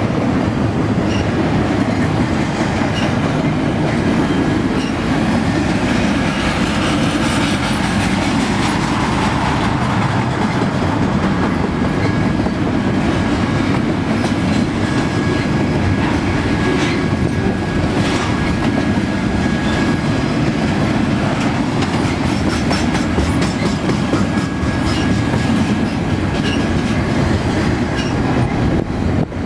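BNSF double-stack intermodal train's loaded well cars rolling past close by: a steady loud rumble of wheels on rail with the clickety-clack of wheels over rail joints. A faint high steady whine comes and goes through the second half.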